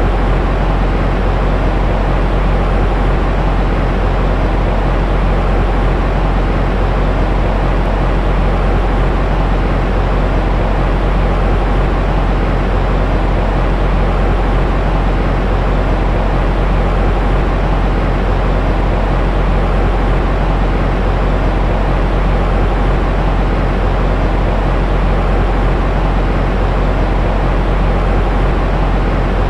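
Steady, unchanging white noise for soothing a baby, heaviest in the deep end and thinning out toward the top, with no breaks.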